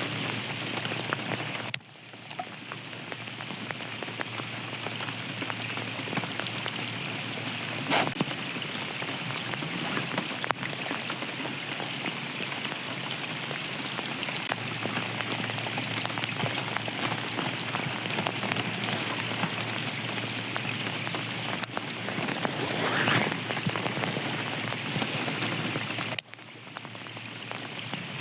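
Steady rain falling, an even patter of drops with a few sharper drop hits.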